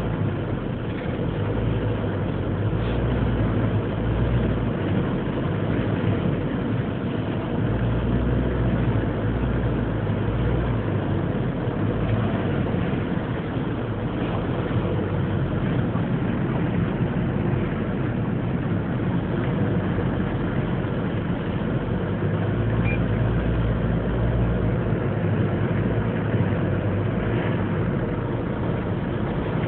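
Moving car on the road in a windstorm: steady road and engine noise, with deep rumbling surges of wind buffeting that swell and fade every few seconds.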